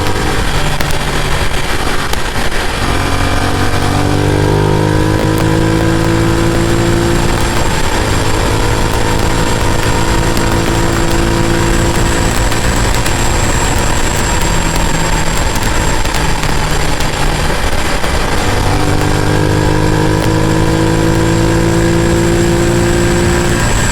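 Ducati Multistrada V2S V-twin engine running while riding, a steady engine note over a rush of wind and road noise. The note fades back a few seconds in, then returns near the end with its pitch slowly rising.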